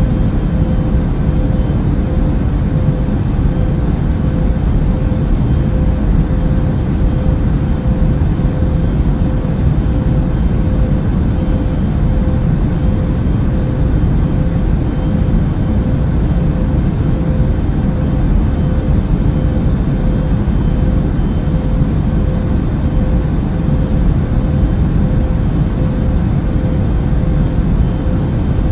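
Airbus A380 cabin noise in cruise flight: a steady, unchanging low rumble of engine and airflow noise with a faint steady hum running through it.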